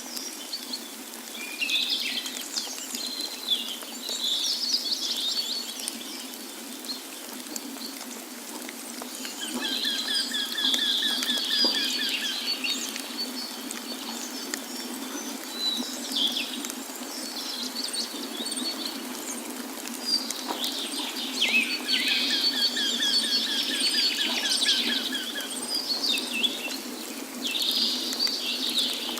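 Several songbirds singing and calling, with overlapping chirps and trills, one long trilled song coming twice. Beneath them runs a steady low rush of falling water.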